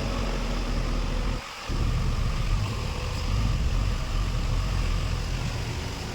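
Steady low vehicle rumble that drops out briefly about a second and a half in.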